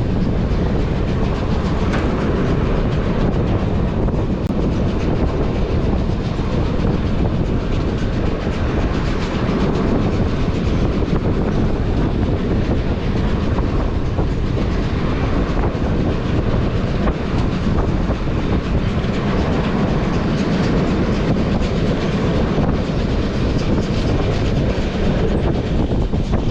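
Steam-hauled heritage passenger train running steadily, with a constant rumble and wheels clicking over the rail joints.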